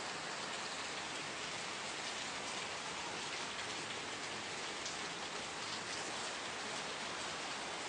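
Steady rain falling on a surface: an even hiss with scattered patter of individual drops.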